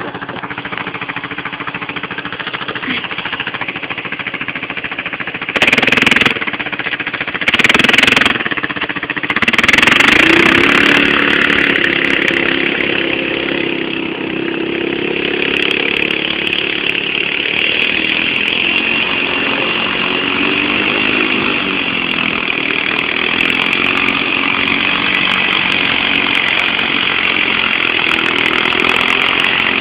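Motorcycle engine running, with two short sharp revs about six and eight seconds in. It then revs up and keeps running, its pitch rising and falling a little.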